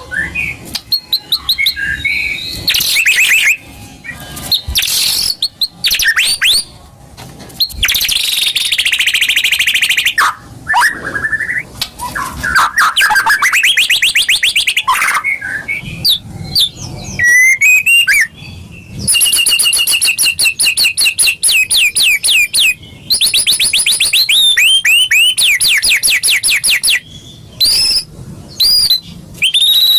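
White-rumped shama (murai batu) singing a long, varied song of whistled phrases and fast rattling trills, broken by short pauses.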